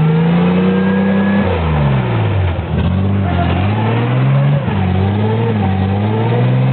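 An off-road 4x4 truck's engine revving hard while trying to push through creek mud. The revs are held high at first, drop off about two seconds in, then climb and fall twice more.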